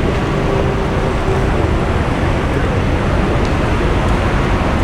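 Steady street traffic noise: the low running of passing cars and their tyres on the road.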